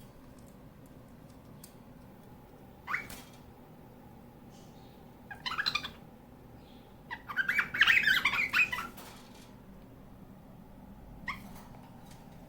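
Cockatiel calling: a short upward-sliding chirp, then two bursts of squawking chatter, the second longer and the loudest, and another short rising chirp near the end.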